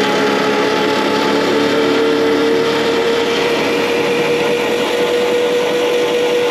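Electric starter spinning the freed-up four-cylinder Wisconsin 30 hp engine with its spark plugs out: a steady whine, with no compression beats, whose pitch creeps slowly up as it turns freely.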